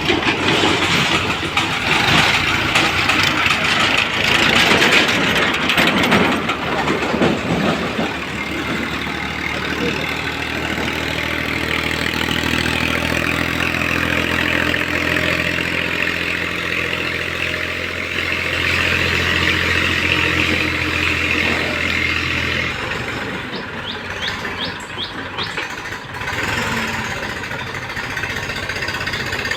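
Diesel tractor engine running under load, with a clattering, noisy stretch at first. Its steady engine note comes through clearly from about a third of the way in and drops away about three-quarters through.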